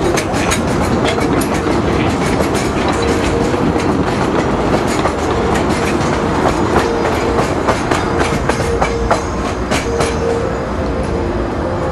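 Passenger cars of a narrow-gauge train rolling past close by, their wheels clicking over the rail joints in a steady, irregular clatter.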